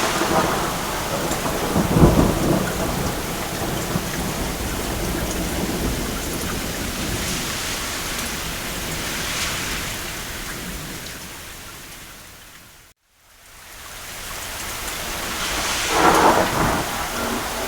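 Steady rain on a roof with rumbles of distant thunder, the heaviest rumble about two seconds in and another near the end. The whole soundscape fades out to a moment of silence a little after halfway, then fades back in.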